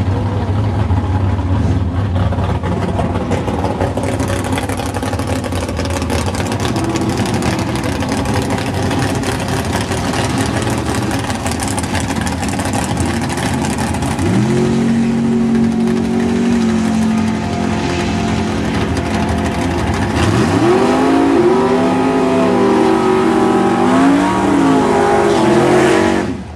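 Drag car's engine idling. About halfway through it is brought up to a higher held speed. Near the end it is revved up and down hard through a burnout, with tyre smoke pouring off the rear.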